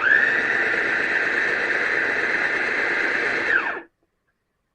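JOYAMI electric food processor's motor and stainless steel blades running in a short burst: it spins up at once to a steady high whine, then is switched off after nearly four seconds and winds down with a falling whine.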